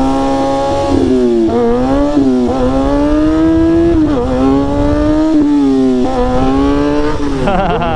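Sport motorcycle engine pulling hard through the gears during a wheelie, its pitch climbing and then dropping sharply at each gear change or throttle roll-off, about six times.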